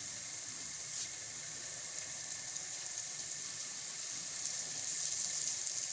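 Chopped onion and ginger-garlic paste sizzling steadily in hot oil in a karahi while being stirred with a wooden spoon.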